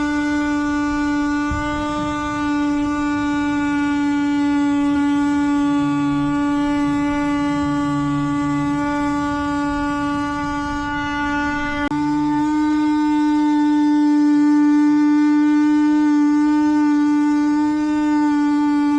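Power saw cutting out a rectangular opening, most likely an oscillating multi-tool whose blade gives a steady high-pitched buzz. The buzz falters for a moment about two-thirds through, then carries on a little louder.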